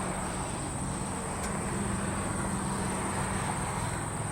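Steady jet engine rumble from a Boeing 747-400 taking off, a low even drone with no sudden changes.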